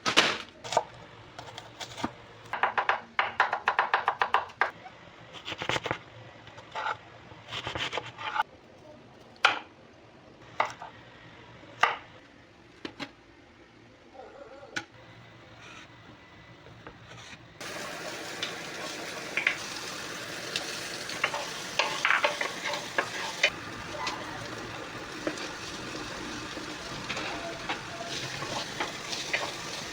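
Kitchen utensils clicking and knocking irregularly, then a little over halfway in food hits a hot pan and sizzles steadily, with stirring clinks and scrapes over the frying.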